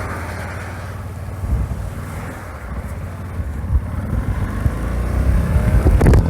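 Suzuki V-Strom 650's V-twin engine idling, with wind buffeting the microphone in gusts that grow stronger toward the end. A short knock near the end.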